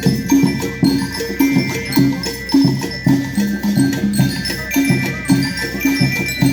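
School rhythm band playing: tuned mallet percussion rings out a melody of short notes over a steady percussion beat.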